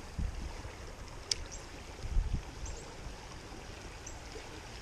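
Creek water rushing steadily, the creek swollen and running fast after weeks of rain. A single sharp click comes about a second in, with a few low thumps.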